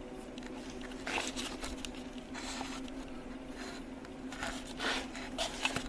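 Soft handling and rustling noises, a few short scuffs and shuffles, over a steady low hum.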